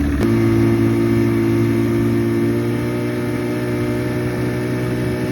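Evinrude outboard motor opened up to full throttle: its note shifts abruptly a fraction of a second in, then runs steady and even.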